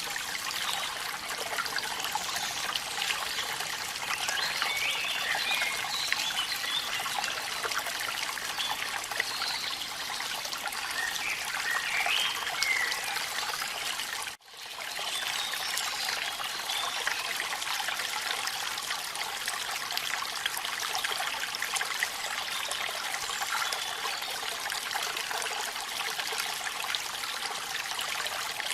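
Waterfall water splashing and trickling steadily, mixed with rain. A few faint short calls rise over the water now and then. The sound cuts out for an instant about halfway through.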